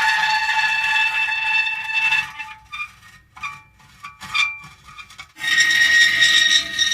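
Metal creaking: a loud, held squeal with several steady pitches for about two seconds, then a few short broken creaks with gaps between them, then a loud held squeal again about five and a half seconds in.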